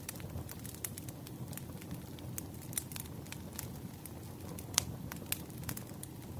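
Wood fire crackling: irregular sharp pops and snaps over a low, steady rumble, with one louder pop about three-quarters of the way through.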